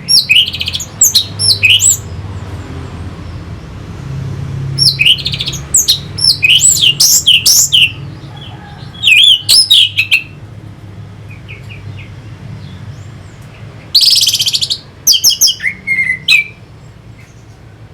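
Orange-headed thrush singing: four bursts of quick, high whistled notes that sweep up and down, separated by short pauses, with one harsh rasping note near the end. A faint low hum runs underneath.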